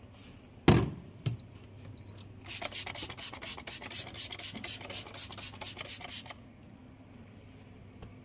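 A knock, then quick back-and-forth scrubbing of a fridge's fruit container, about five strokes a second for roughly four seconds.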